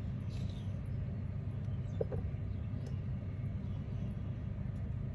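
Steady low background rumble, with a few faint light clicks and taps.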